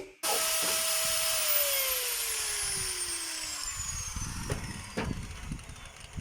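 A power tool's motor, at speed and then winding down, its whine falling steadily in pitch over a few seconds as it coasts. Two light knocks come near the end.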